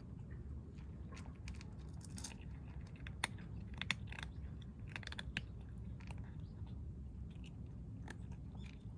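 Stray kittens eating, chewing food with a run of short, irregular crisp clicks, thickest in the middle of the stretch.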